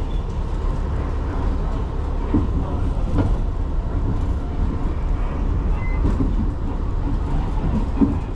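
New York City subway train running, heard from inside the car: a steady low rumble with a few knocks from the wheels.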